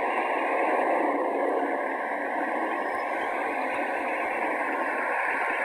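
Steady static hiss from an airband radio feed between air traffic control transmissions, cut off below the low bass as a radio's sound is.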